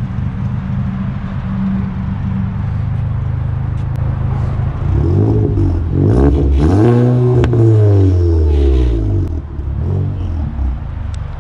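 Car engine idling, then revved once, its pitch climbing to a peak and falling back to idle, with an exhaust pop as the revs drop.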